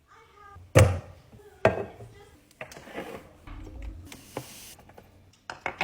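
Hard objects being handled and set down, as in restocking a pantry or fridge: two loud knocks, about a second in and again just before two seconds, then lighter clacks and a brief rustle.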